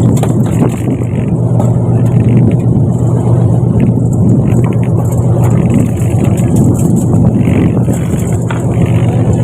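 A fishing boat's engine running steadily at sea, a loud, even, low drone with a faint recurring hiss over it.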